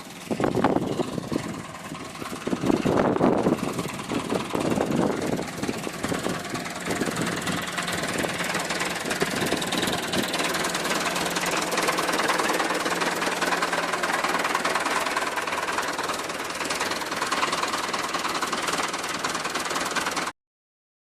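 Massey Ferguson 275 tractor's diesel engine running steadily under light work, with heavier uneven pulses in the first few seconds; the sound cuts off suddenly near the end.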